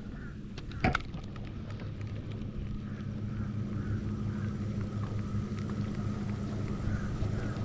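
A boat motor running with a steady low hum that slowly grows louder, with a single sharp knock about a second in.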